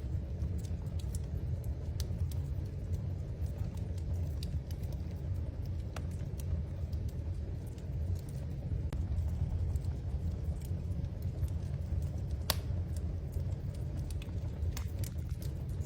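Wood fire crackling in a fireplace: a steady low rumble of the flames with scattered sharp pops, one louder pop about twelve seconds in.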